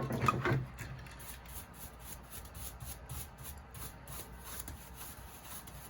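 Faint, rapid scratching strokes on a small hand-carved wood figure, several a second, as a hand tool rubs over the wood.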